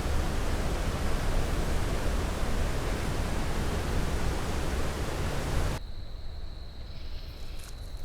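Steady, full-range rushing noise that cuts off abruptly about six seconds in, giving way to a much quieter background with a thin, steady high-pitched tone and a few faint ticks.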